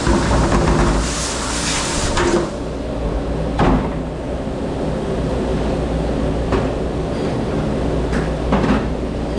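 Commercial dish-room noise: a steady machine hum with a few sharp knocks and clatters of dishware, the loudest a little over a third of the way through.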